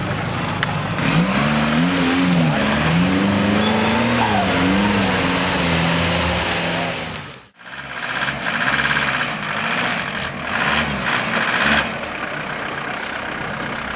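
Off-road 4x4 engine revving up and down several times over a loud hiss. It cuts off abruptly about halfway, and a second engine revs more faintly.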